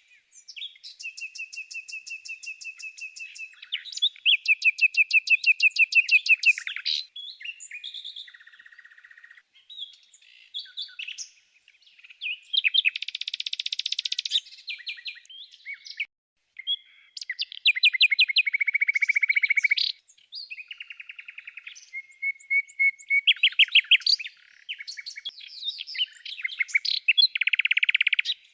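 Songbird singing a varied song of chirps and fast trills of rapidly repeated notes, in phrases of one to three seconds with brief pauses between them.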